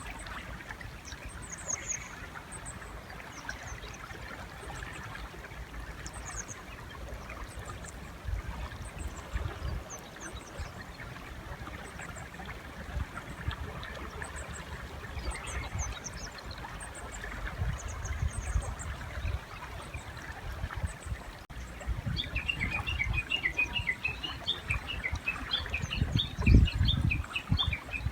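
River flowing with a steady low rumble while small birds give scattered high chirps. In the last several seconds a Japanese bush warbler (uguisu) breaks into a long, rapid run of repeated call notes. A low thump comes near the end.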